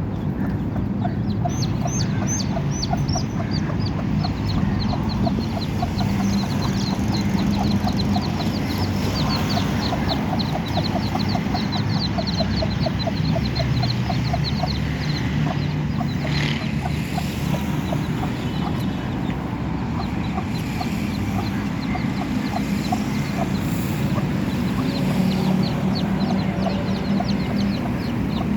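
Chicks peeping in rapid, high chirps while a hen clucks, over a steady low rumble.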